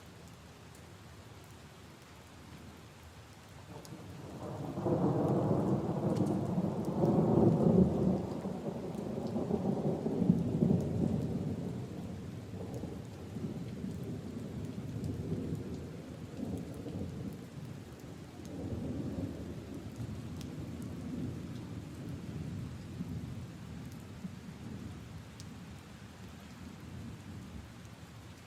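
Steady rain falling on leaves and puddles, with a long roll of thunder that starts about four seconds in, rumbles loudest for several seconds and slowly fades away.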